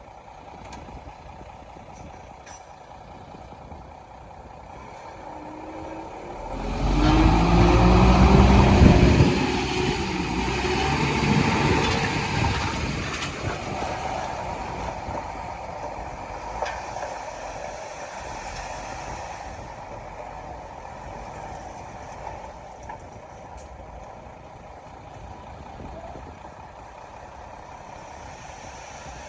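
Heavy diesel engine of earthmoving equipment running at a steady low speed, revving up hard about seven seconds in, then easing back down to a steady run.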